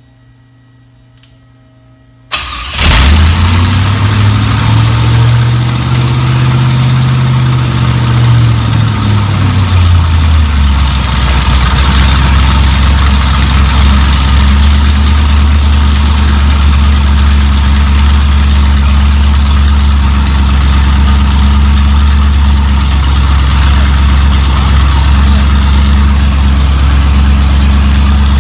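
Chevy 350 small-block V8 cranking and catching about two seconds in, rising in revs for several seconds, then settling back to a steady idle.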